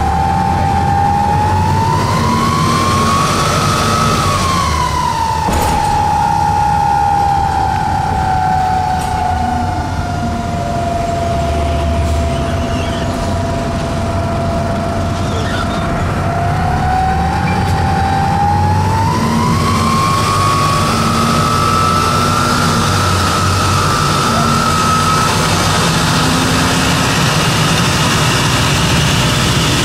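Detroit Diesel Series 50 bus engine running under a loud whistling whine that rises and falls with engine speed: climbing over the first few seconds, dropping and holding low, then climbing again and fading out near the end. The whine is the sign of a bad turbocharger, in the title's words.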